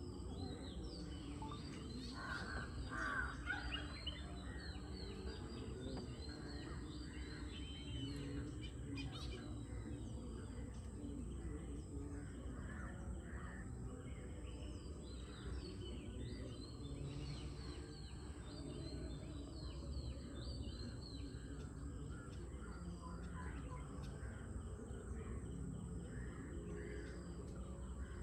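Early-morning birdsong: many short chirps and whistles throughout, with crows cawing, loudest about two to four seconds in. A steady high thin tone and a low rumble of background noise lie underneath.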